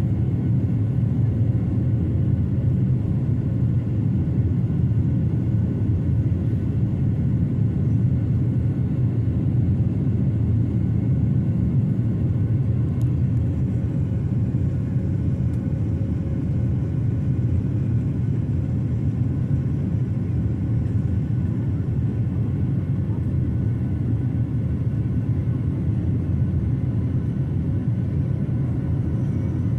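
Boeing 737-800 in the climb after take-off: a steady, even engine and airflow rumble with no change in pitch or level.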